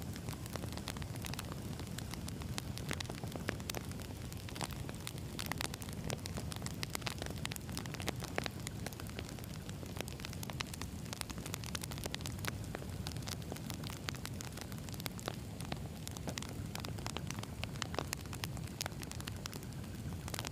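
Wood logs burning in a campfire: a steady low rush of flame with frequent sharp crackles and pops from the burning wood.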